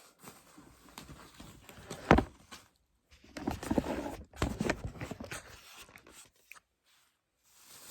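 Unpacking noises as scooter parts are handled in their packaging: a sharp knock about two seconds in, then a stretch of rustling and scraping.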